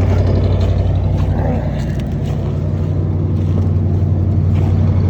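Chevrolet 454 big-block V8 at a steady fast idle just after a cold start in deep frost, running smoothly; it purrs.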